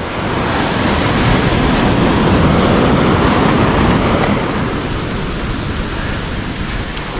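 Surf washing up a beach, a steady rush of breaking waves that swells over the first couple of seconds and then eases slightly.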